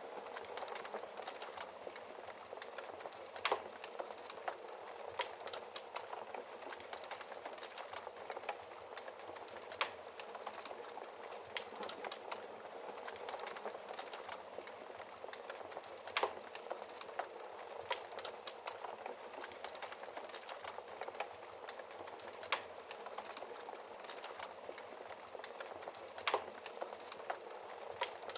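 Wood fire burning in a fireplace: a steady soft hiss with frequent small crackles, and a sharper, louder pop every six seconds or so.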